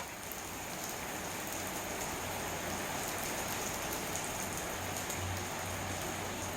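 Steady rain falling outside a window: an even hiss with faint, scattered drop ticks.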